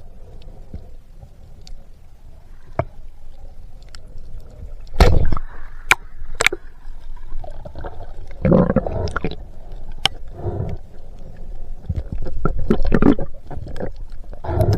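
Water gurgling and sloshing in irregular surges, with a low rumble underneath and several sharp clicks and knocks.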